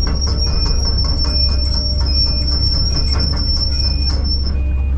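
Kobelco SK210 excavator's diesel engine running with a steady low rumble, heard from the cab, with a steady high-pitched whine that stops near the end. Short faint beeps repeat a little faster than once a second.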